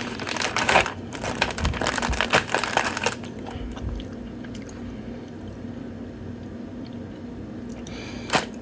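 Close-up chewing of a soft Chips Ahoy Chewy Cookie Butter cookie, with crunching for about the first three seconds, then quieter with a steady low hum and one short noise near the end.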